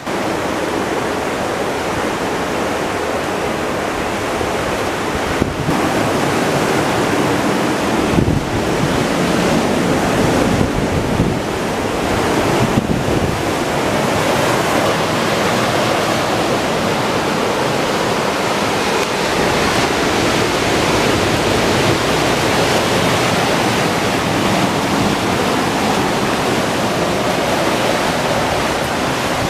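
Ocean surf breaking and washing up the beach in a steady, continuous rush, with wind buffeting the microphone.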